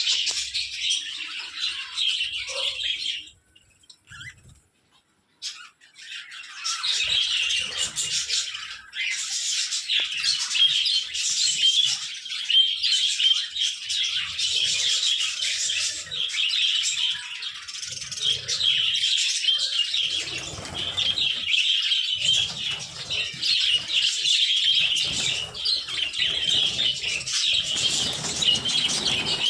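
A flock of budgerigars chattering and warbling continuously, with a short lull a few seconds in. Low rustling sounds come in bursts during the second half.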